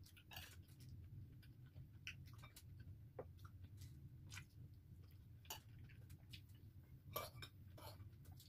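Quiet mouth sounds of a person eating: chewing with small wet clicks, and a louder cluster of clicks or crunches about seven seconds in, over a low steady hum.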